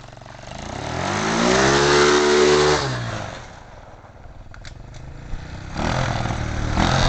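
Mini bike's small engine revved up and let back down over about three seconds, then idling lower, and rising again toward the end as it is readied at the start line.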